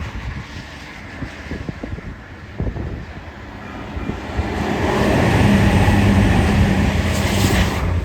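A train passing, its steady hum building about four seconds in and dropping away sharply near the end, with wind buffeting the microphone.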